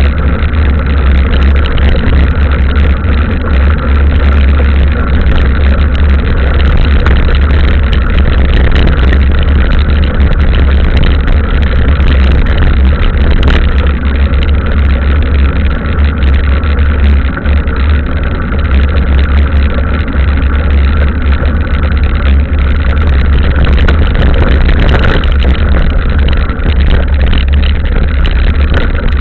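Steady, loud rumble of wind and riding noise on a camera carried on a mountain bike riding a trail in the rain, heaviest in the low end and unbroken throughout.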